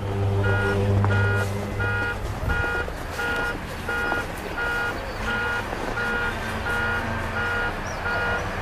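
A low steady hum, loudest in the first two seconds or so, under a high pitched beep that repeats evenly nearly twice a second: the 'strange hum in the sky'.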